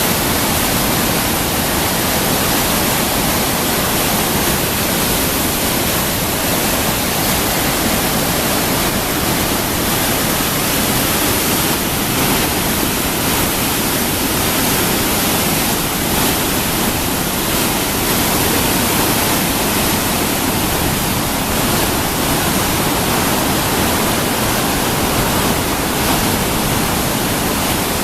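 Mountain creek rapids and waterfall rushing, a loud, steady wash of white water with no change.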